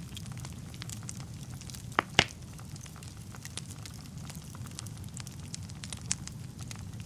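Wood fire burning in a fireplace: a steady low rumble with scattered crackles, and two loud pops in quick succession about two seconds in.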